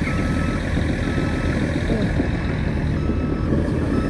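Heavy truck engine running, with a reversing alarm beeping about once a second, louder at first and fainter in the second half.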